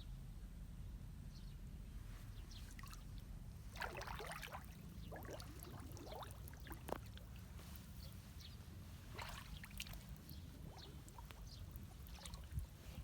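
Water splashing and gurgling in a clogged culvert being cleared of debris, in scattered clusters, the busiest about four, six and nine seconds in, over a steady low rumble.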